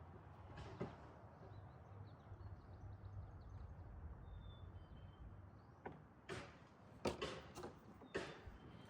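Faint clicks and knocks of parts and tools being handled during a filter change, mostly in the second half, over a low steady hum.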